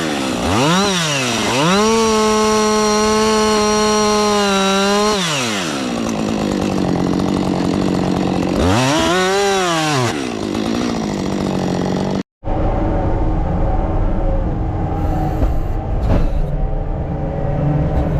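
A heavy machine running at high revs with a steady whine, its pitch sagging sharply and recovering twice as it takes load. After a sudden break about twelve seconds in, a lower, rougher running rumble takes over.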